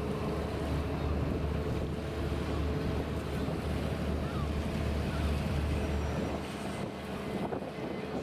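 Wind buffeting the microphone as a steady low rumble over a wash of water noise and a faint steady hum; the rumble eases a little near the end.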